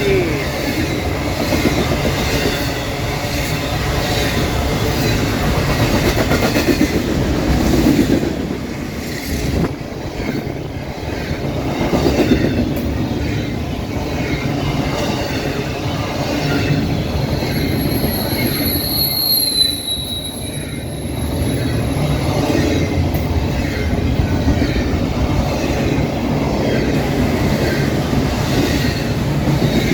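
Intermodal double-stack freight train rolling past at close range, a steady rumble of cars and wheels on the rail. A thin, high wheel squeal rises slightly and falls away a little past halfway.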